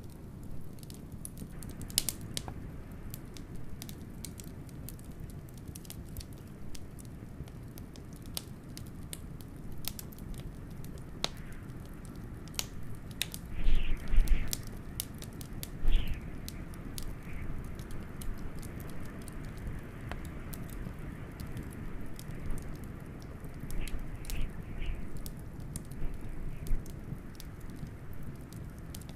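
Wood fire crackling, with frequent sharp pops over a steady low rumble. A few louder bursts of crackling come about halfway through and again near the end.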